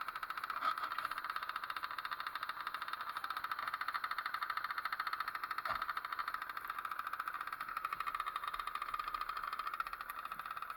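Small Zündapp two-stroke engine on a pit bike running steadily with rapid, even firing pulses. There is a brief knock about half a second in and another near the middle.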